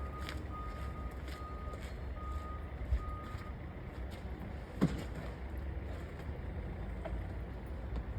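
A vehicle's backup alarm beeping repeatedly on one steady tone, stopping about three and a half seconds in, over a steady low rumble. A sharp clack sounds near the middle.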